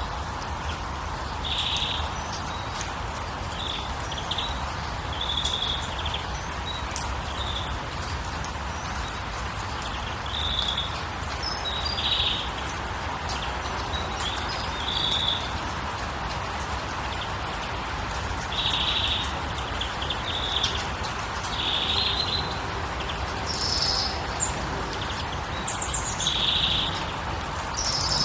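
Songbirds chirping in short bursts of calls every second or two over a steady, even rushing background.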